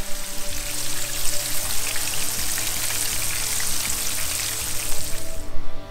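Floured pieces of barbel (sea catfish) sizzling in hot oil in a frying pan as they are turned with tongs. The sizzle cuts off suddenly near the end.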